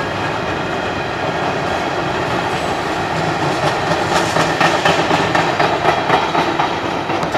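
Freight train's covered hopper and tank cars rolling past close by: a steady rumble of steel wheels on rail, with rhythmic clicking as the wheels cross rail joints, more frequent from about four seconds in.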